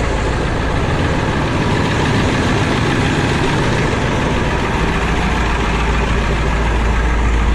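1999 International 3800 bus's 7.3-litre V8 turbo diesel idling steadily, shortly after a cold start.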